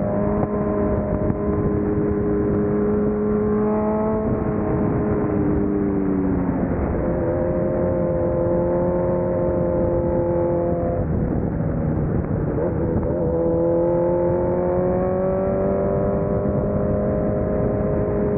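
Polaris Slingshot engine running at road speed, with road noise underneath. The engine note steps down about six seconds in, breaks up for a couple of seconds around the middle, then climbs steadily as it pulls again.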